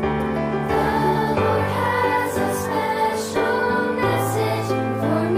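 Background music: a choir singing a slow religious song in held chords over an instrumental accompaniment.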